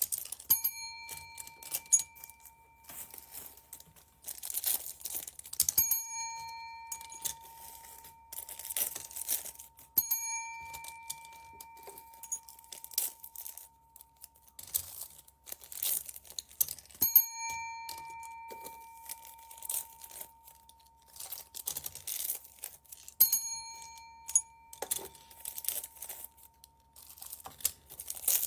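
Plastic bags crinkling and rustling in irregular bursts as they are handled and opened. A bell-like chime rings out five times, a few seconds apart, each time fading away slowly.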